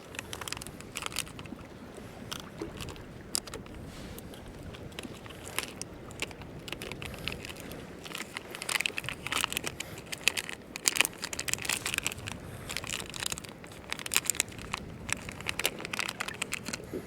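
Crinkling and small crackling clicks of plastic being handled, as ink tabs are loaded into a soft-plastic octopus lure; the handling gets busier and louder in the second half.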